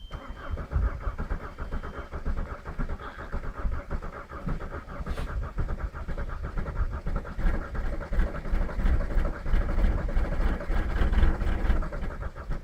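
Diesel engine cranking and struggling to start in extreme cold, with a rapid, uneven rhythm that grows louder toward the end.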